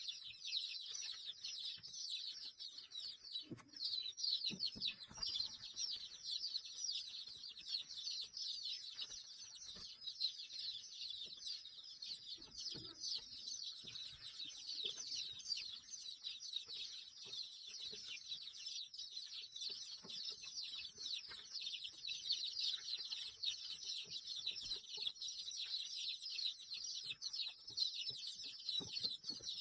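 Many small birds chirping at once: a dense, continuous high-pitched chatter of quick, downward-sweeping calls.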